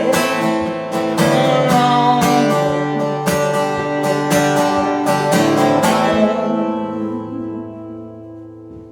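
Guitar strummed under a held sung final word, "alone"; about six seconds in the strumming stops and the last chord rings out and slowly fades, ending the song.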